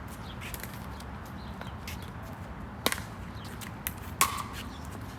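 Pickleball rally: sharp pops of paddles striking the plastic ball, two loud hits just over a second apart in the middle, with fainter ticks of the ball and footsteps around them.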